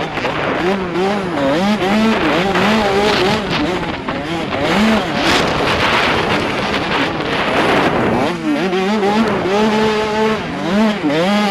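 85cc two-stroke motocross bike engine revving hard and easing off again and again as it is ridden around the track, with one sharp climb in revs near the end. Heard from a helmet camera, with wind rushing over the microphone.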